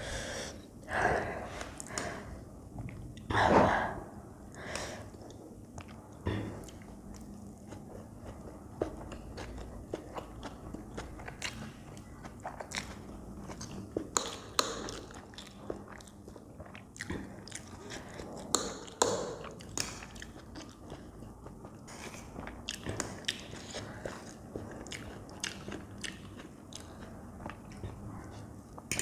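Close-miked eating sounds: chewing mouthfuls of Maggi instant noodles, with louder crunchy bites of a raw green chilli in the first few seconds, and sharp clicks of the fork on the plate.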